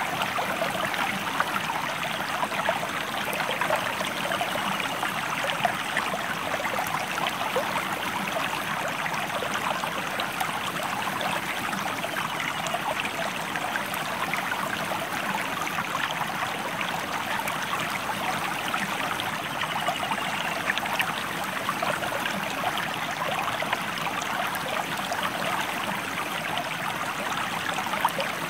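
River water flowing steadily, an unbroken rushing and splashing of moving water.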